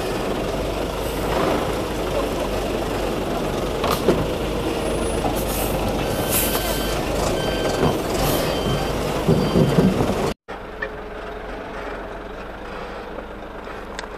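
Concrete mixer truck engine running, with its reversing alarm beeping at a steady pace for a few seconds in the middle. An abrupt cut about ten seconds in leaves the truck quieter.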